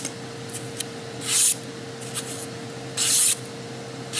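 Kitchen knife blade drawn in short scraping strokes, a hiss about every second and a half with light ticks between.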